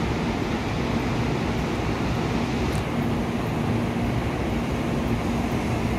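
Steady rumble and hum of an N700-series Shinkansen train at a station platform, with a low hum that comes and goes. A brief high falling chirp sounds about three seconds in.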